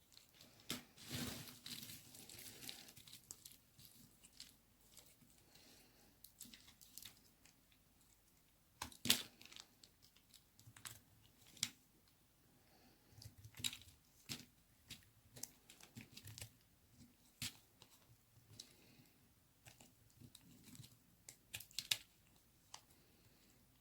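Dry white baby soap being cut with a knife: irregular crisp cracks and crunches with short scraping passes, the loudest snap about nine seconds in.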